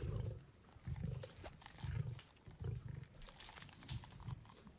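Lions growling over a carcass as they feed: short, low growls about once a second.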